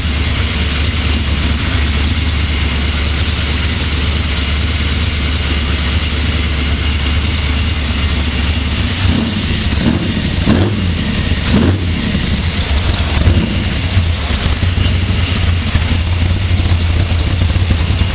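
Freshly built 383 V8 in a Camaro Z28 running at idle, revved briefly a few times about halfway through before settling back to idle.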